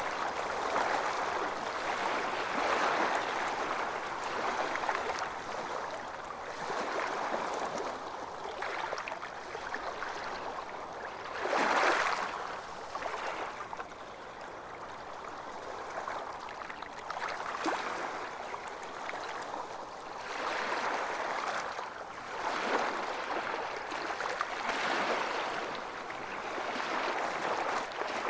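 Ocean waves washing onto a beach, a continuous rushing that swells and ebbs every few seconds, with one stronger wave breaking about twelve seconds in.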